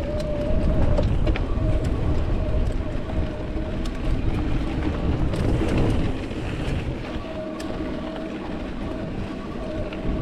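Mountain bike ridden over a rocky trail: tyre rumble and wind, with sharp clicks and rattles from rocks and the bike. A thin steady buzz comes and goes, during the first few seconds and again near the end.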